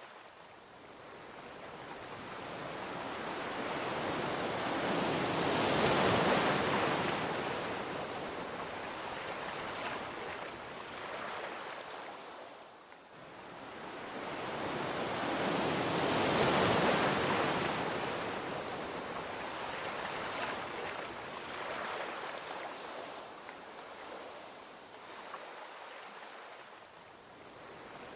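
Gentle ocean waves breaking and washing onto a beach in slow swells, two waves building to a peak and fading, about ten seconds apart.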